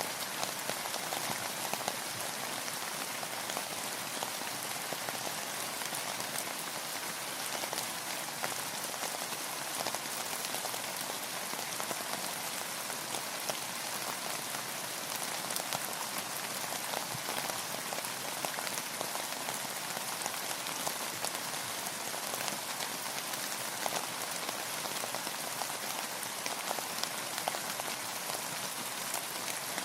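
Steady rain falling, a dense patter of many small drops hitting a surface, even and unchanging throughout.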